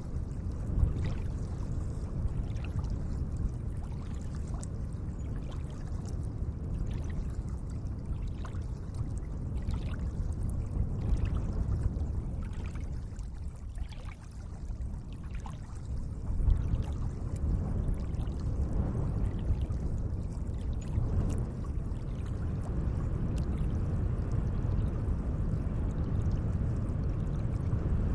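Lake water lapping and splashing gently, with many small irregular splashes over a steady low rumble.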